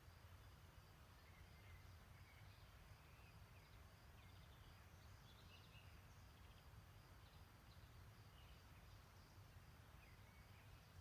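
Near silence: faint, scattered birdsong chirps and a faint steady high pulsing call, over a low steady background noise.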